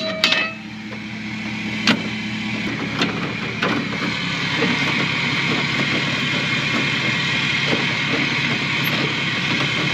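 A trailer being unhitched from a pickup: a few sharp metal clanks and knocks in the first four seconds, over the steady running of a vehicle engine.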